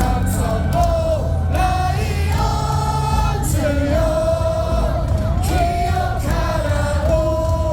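Baseball crowd singing a cheer song together in held, sustained notes over loud backing music from the stadium sound system.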